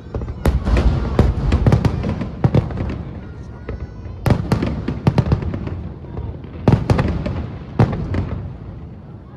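Fireworks shells bursting in quick volleys of sharp bangs and crackles, each echoing, in three clusters a couple of seconds apart.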